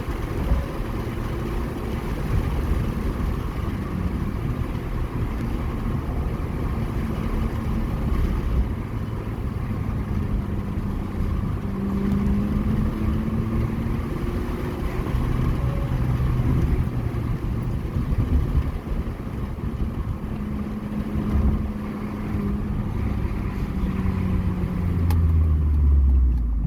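Mini Cooper S R53's supercharged 1.6-litre four-cylinder engine running while the car is driven, its pitch rising and falling with the revs over steady road noise, and loudest in a low surge near the end.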